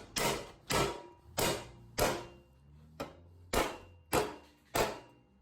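Hammer striking metal: eight sharp blows, roughly one every half second to second, each dying away quickly.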